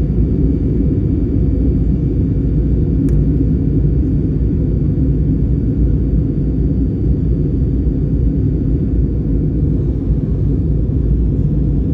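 Steady low rumble of an Airbus A320's engines and airflow heard inside the passenger cabin on the approach to landing. A single brief click about three seconds in.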